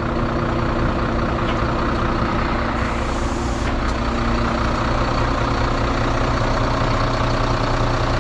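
Heavy recovery truck's diesel engine running steadily at a constant speed, with a brief hiss of air about three seconds in.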